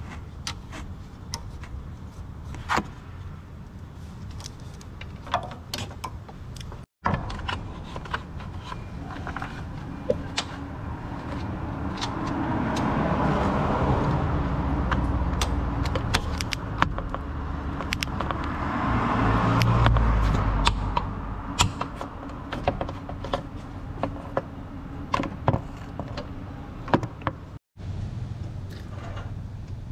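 A vehicle passes twice, its noise swelling and fading, the second pass louder. Throughout, scattered sharp clicks and knocks of hand work on metal parts.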